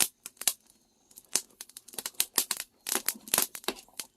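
Fermented tea leaves crinkling and rustling as they are handled, an irregular run of dry crackles with a short lull about a second in.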